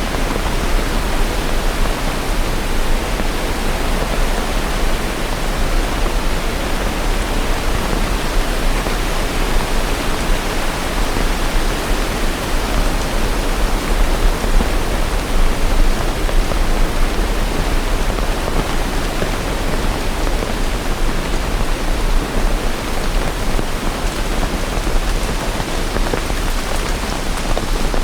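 Steady heavy rain falling, a dense, even hiss of drops with no thunder or other events.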